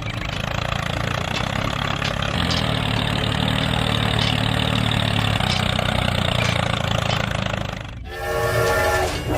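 A small engine running steadily. About eight seconds in it breaks off abruptly and a multi-tone horn sounds.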